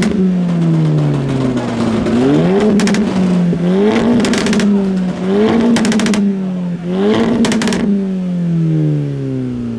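Modified car engine being blipped, revving up and falling back four times, with a short burst of exhaust pops and crackles as each rev drops off.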